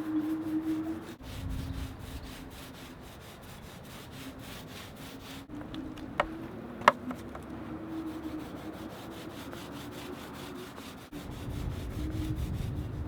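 Power sander rubbing across a boat hull, its motor humming steadily with a fast, even ticking. There are two sharp clicks a little past the middle.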